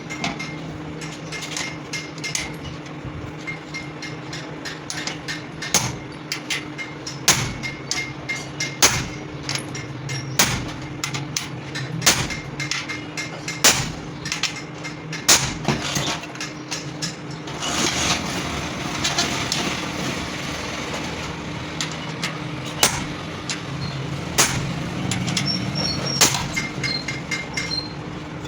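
Hammer blows on metal during a clutch plate rebuild: heavy strikes about every second and a half among lighter taps, over a steady hum, with a short rasping stretch about two-thirds of the way through.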